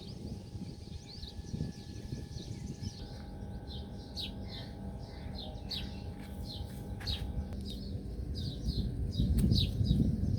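Small birds chirping, a quick run of short high chirps that grows busier after the first few seconds, over a steady low rumble.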